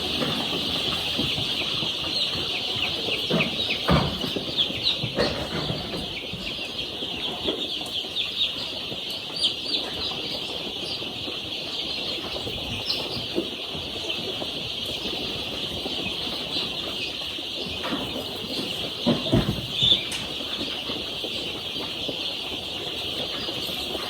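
A crowd of young chicks peeping continuously, many short high chirps overlapping, with occasional knocks and rustles among them.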